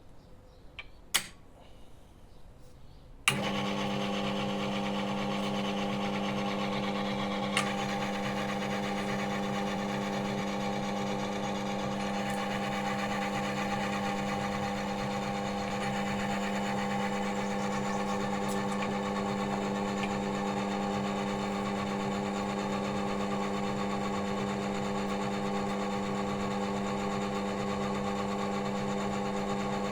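Oil-wear test machine switched on about three seconds in after a short click, its electric motor and spinning roller then running at a steady, even hum. The rig is running without load while it warms up the engine oil.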